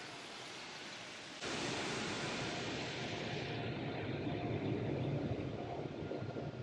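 Automatic car wash running over the car, heard from inside the cabin as a steady rushing hiss; about a second and a half in, a much louder rush starts suddenly and carries on, its hiss thinning after a couple of seconds.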